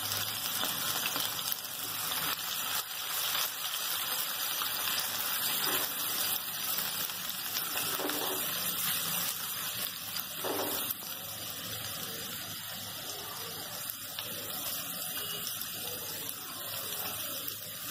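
Finely chopped green chillies sizzling in hot oil in a nonstick wok with a steady hiss, stirred with a wooden spatula.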